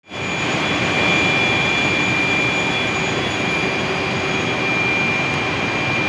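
Steam turbine in a power plant running at speed: a loud, steady rushing noise with a constant high-pitched whine over it.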